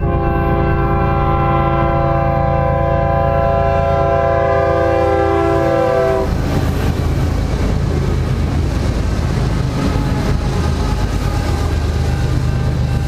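Train horn sounding one long chord of several notes for about six seconds, then cutting off, over the steady rumble of a passing train that carries on after the horn stops.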